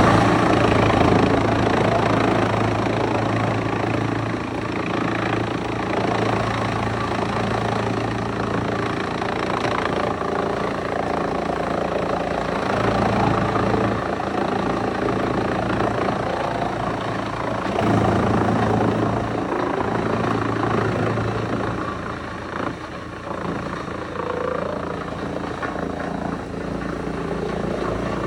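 Wood chipper running steadily: a continuous loud mechanical drone of engine and cutting drum, dipping slightly a little over two-thirds of the way through.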